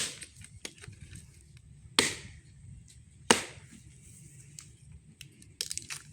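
Axe chopping firewood: three heavy blows biting into the wood, the second and third about two seconds and a second and a half apart, then a few lighter knocks and cracks of wood near the end.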